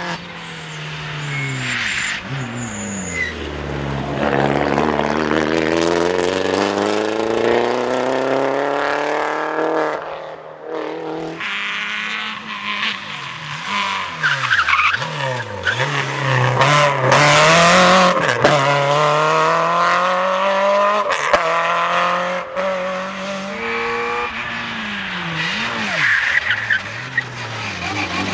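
Rally car engines taking a corner in turn: pitch drops as they brake and shift down, then rises as they accelerate out under full throttle. Tyres squeal on the tarmac.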